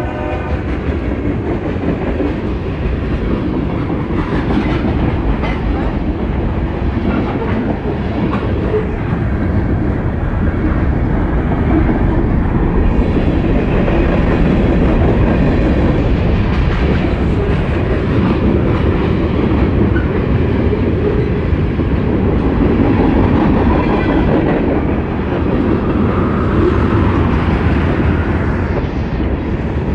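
Freight train of tank cars rolling past close by, steel wheels running over the rails, loud and steady throughout. A train horn cuts off right at the start.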